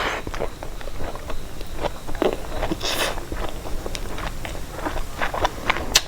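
A person eating up close: chewing with many short wet mouth clicks and smacks. There are brief louder noisy sounds right at the start and about three seconds in.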